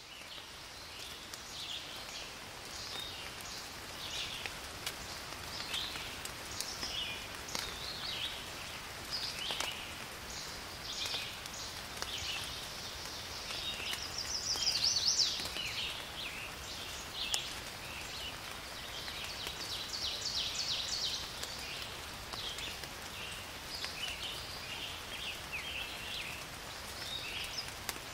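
Small birds singing and chirping, with short whistles and a rapid trill a little past two-thirds through, over a faint steady patter of light rain.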